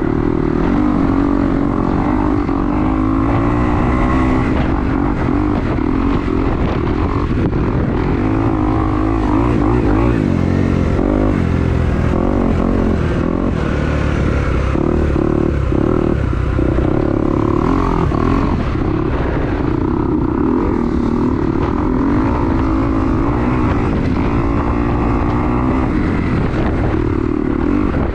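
Kawasaki KX250 four-stroke single-cylinder dirt bike engine revving up and down while being ridden, with strong wind buffeting the microphone.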